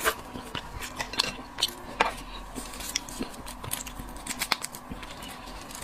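Crab shell being cracked and pulled apart while eating: irregular sharp cracks and clicks.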